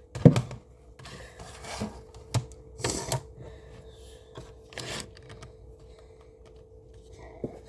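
Kitchen items being handled and set down on a counter: a sharp knock just after the start, then scattered lighter knocks and rustles, over a faint steady hum.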